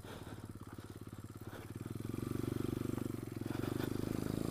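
Pit bike's single-cylinder four-stroke engine running under the rider, with a steady rapid firing pulse; the throttle opens and it gets louder about two seconds in.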